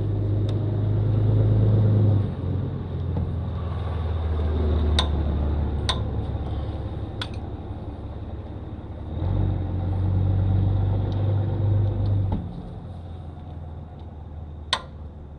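A low mechanical rumble like an engine running, loudest in the first two seconds and again from about nine to twelve seconds in. Three sharp clicks come about five, six and seven seconds in.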